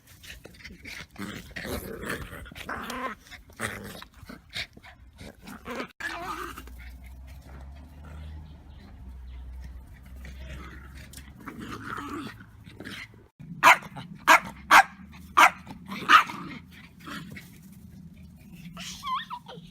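A dog barking five times in quick succession in the second half, with softer, scattered noises earlier on.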